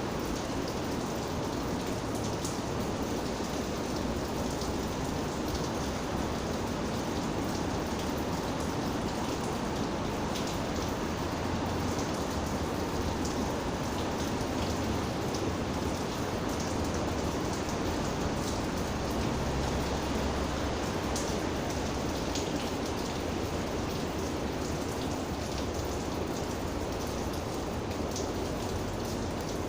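Steady rain falling, with many small raindrop ticks spattering on a surface.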